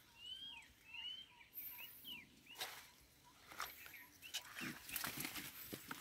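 Faint bird chirps: a run of short, high, bending whistles in the first half, followed by soft rustling and small clicks in the second half.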